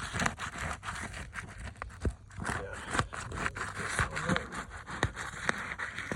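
Gritty scraping and crackling of asphalt roof shingles being handled and pried at, with many sharp clicks and knocks throughout.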